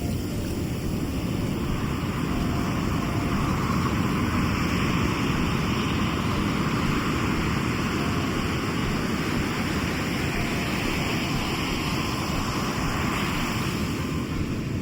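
Sea waves washing ashore, steady surf noise with one wave surging about four seconds in and easing off near the end, over a low rumble of wind on the microphone.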